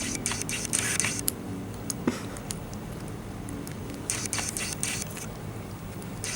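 Argentine black and white tegu feeding on egg and eggshell from a plate: short scraping and crackling sounds in clusters, near the start, about two seconds in, and again around four to five seconds in.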